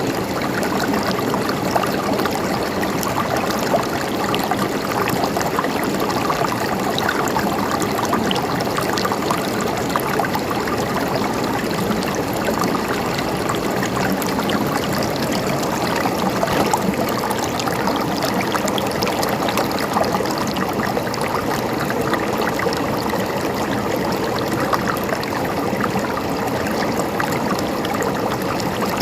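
River water flowing and gurgling steadily over rocks, an unbroken rushing with small splashes throughout.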